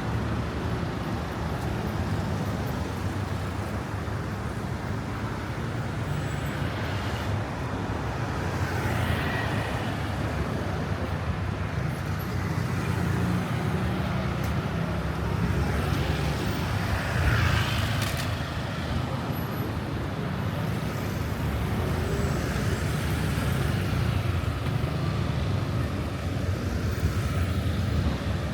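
Road traffic: a steady rumble of vehicle engines and tyres, with vehicles passing close by, the loudest about seventeen seconds in.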